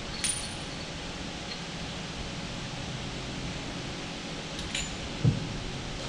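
A few light metallic clinks of hand tools being handled, with a duller, louder knock about five seconds in, over a steady workshop hum.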